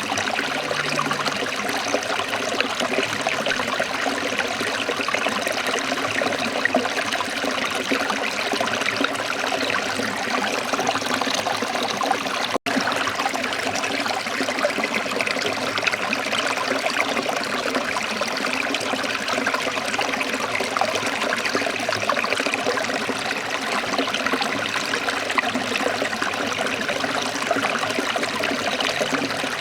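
Waterfall: a steady rush of falling, splashing water with no pauses, cut by a split-second dropout about twelve seconds in.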